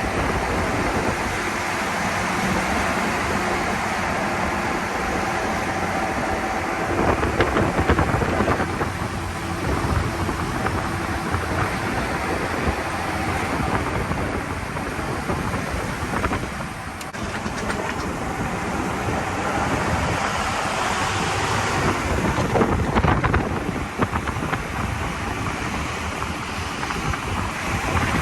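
Toyota FJ45 Land Cruiser on a test drive: the engine running under a heavy rumble of tyre and wind noise, which dips briefly twice.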